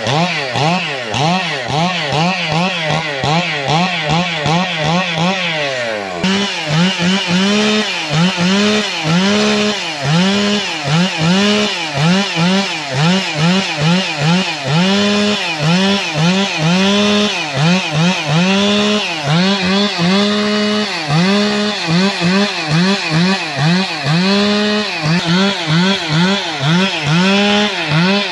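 Two-stroke chainsaw running hard through wood, its engine pitch swinging up and down about twice a second as the revs rise and fall under load. The pitch slides down once about six seconds in before the pulsing picks up again.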